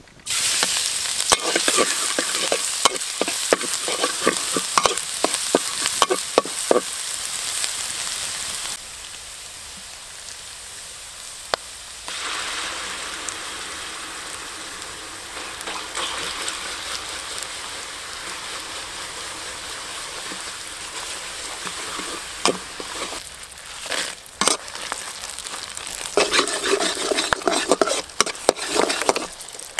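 Chopped garlic dropped into hot oil in a wok, sizzling loudly at once, with a metal spatula scraping and tapping against the wok as it is stirred. Later the frying settles to a softer, steady sizzle, and near the end brisk stirring brings the scrapes and clicks back.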